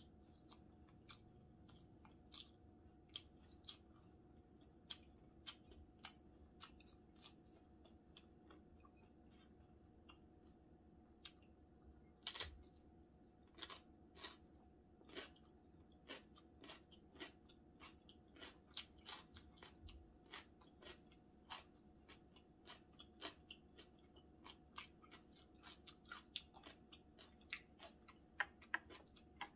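Quiet close-up sounds of a person chewing food: irregular wet clicks and mouth smacks, sparse at first and coming thicker toward the end, over a faint steady hum.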